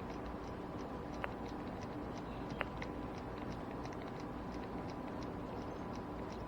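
Fishing reel being cranked on a retrieve: light rapid ticking, several ticks a second, over a steady low hum, with two sharper clicks about a second and two and a half seconds in.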